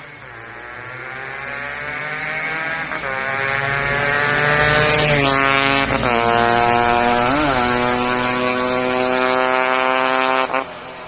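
Yamaha RX-Z's two-stroke single-cylinder engine through a loud aftermarket exhaust, accelerating hard. The pitch climbs and drops sharply at gear changes about three and five seconds in, then holds high revs as it gets louder. Near the end the throttle snaps shut and there is a brief blip.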